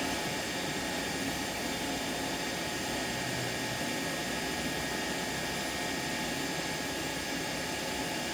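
Steady, even rushing noise of a running fan or blower.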